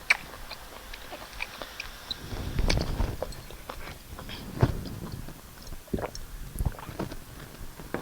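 Close-miked mukbang eating: wet chewing and lip smacking of rice and stew, with many short mouth clicks and a few low thumps.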